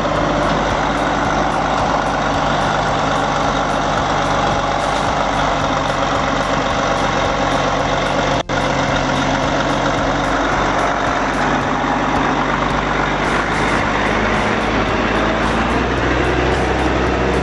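Heavy truck's diesel engine running steadily, with a brief break about halfway through.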